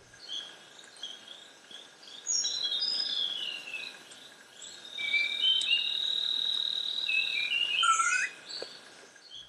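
Tropical forest birds calling: a mix of short chirps and whistles. A steady high insect buzz starts about five seconds in and is held for a couple of seconds.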